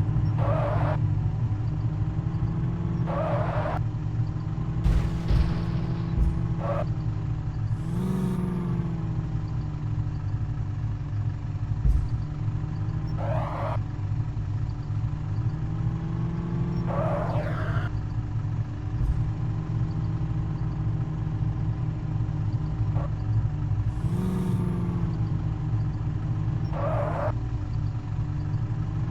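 Truck's diesel engine running steadily, its pitch rising briefly twice, with short hisses every few seconds.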